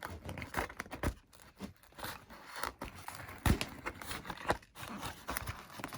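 Hands feeding a cable through a hole in an EPP foam model plane: scattered scraping, rustling and small clicks, with sharper knocks about a second in, near the middle and past halfway.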